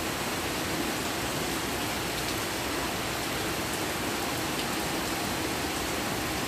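An even, steady hiss with no distinct knocks or tones.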